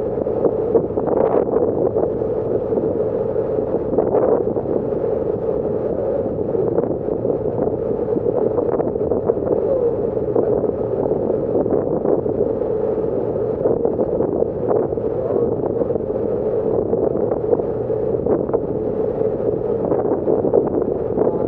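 Passenger ferry underway: the steady drone of its engines and hull through the water, with wind on the microphone.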